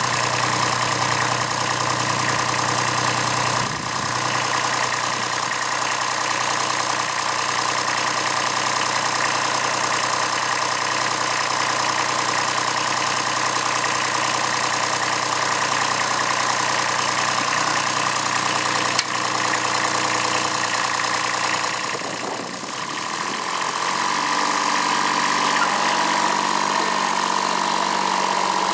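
Kubota B7001's D850 three-cylinder diesel engine idling steadily to cool down after heavy stump pulling. About three quarters of the way through, the engine note briefly dips and then settles at a slightly different pitch.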